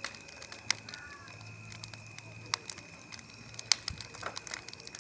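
Wood bonfire crackling, with scattered sharp pops; the loudest pop comes about three quarters of the way through.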